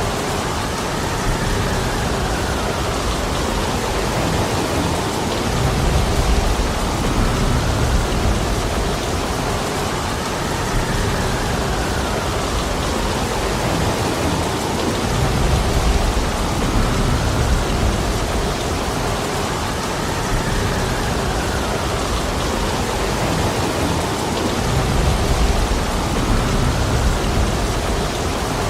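Heavy rain falling steadily, with a low rumble that swells about every nine to ten seconds.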